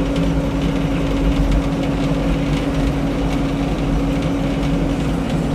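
An engine running steadily at idle, with a constant even hum and no change in speed.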